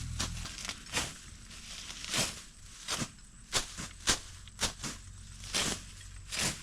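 A knife chopping and slashing through dragon fruit stems and garden growth: about a dozen sharp cuts at an uneven pace, roughly one or two a second.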